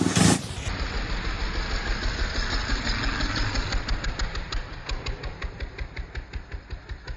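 Small gasoline engine running steadily, its firing pulses growing more distinct toward the end, after a brief loud burst of noise at the very start.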